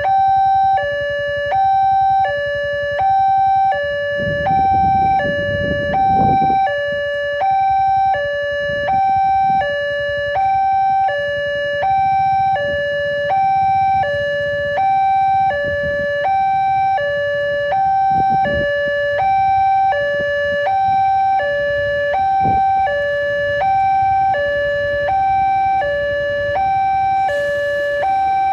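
Railway level-crossing warning alarm sounding its two-tone electronic signal, a high and a low tone alternating about every two-thirds of a second: the warning that a train is approaching and the crossing is closed. A low rumble passes under it about four to six seconds in.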